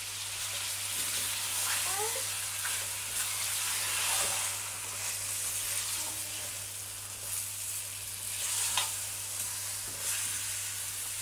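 Chicken pieces frying in oil in a stainless steel pot with freshly added chopped tomatoes and green chillies: a steady sizzle, stirred with a silicone spatula that scrapes against the pot now and then.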